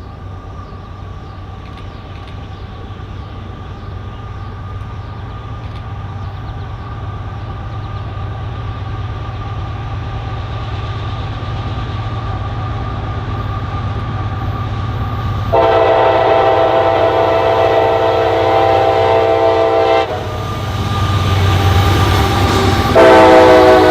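An approaching train rumbling steadily louder, then its horn sounding one long blast lasting about four and a half seconds. The noise of the passing train follows, and a second, louder horn blast starts near the end.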